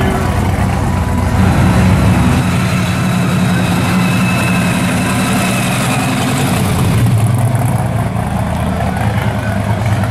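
Supercharged V8 of a 1961 Chevrolet Impala pro street car idling with a deep, steady rumble as the car rolls slowly, a little louder about two seconds in.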